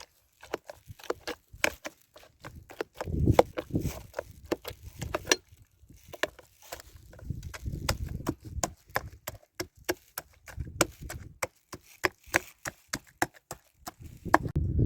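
Dry wood cracking and snapping in quick, irregular sharp clicks, with stretches of low rumbling noise in between.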